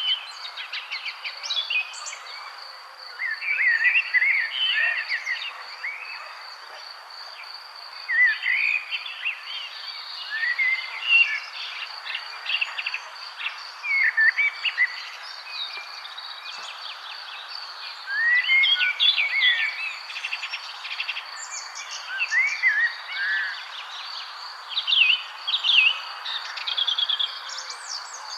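Songbirds singing in short chirped and warbled phrases, bursts every second or two, over a steady high pulsing trill and an even background hiss.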